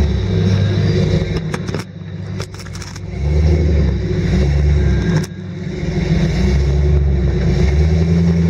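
GMC Sonoma rock crawler's engine revving in bursts while climbing a rock ledge, easing off twice and coming back on the throttle. A few sharp clicks or knocks are heard between one and three seconds in.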